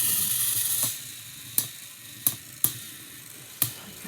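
Motorized toy trains running against each other on their track: a steady low motor hum with a hissy rush for about the first second, then four sharp clicks.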